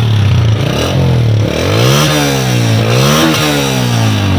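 Honda 125's single-cylinder four-stroke engine idling, then revved twice with the throttle, each time rising and falling back to idle. This is its exhaust note with a new exhaust header washer fitted and the silencer nuts tightened, so no pressure leaks at the head.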